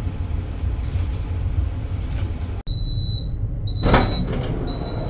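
Passenger train running, heard from inside a carriage as a steady low rumble. About halfway there is a sudden break, after which a high electronic beep sounds about once a second and a short loud rush of noise comes near the end.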